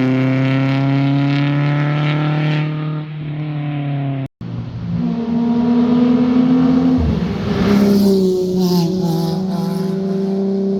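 Performance car engines at full throttle on a winding road. One engine note holds and slowly rises, then cuts off abruptly a little after four seconds in. A second, higher-pitched engine follows, dropping in pitch at a gear change about seven seconds in and then climbing again.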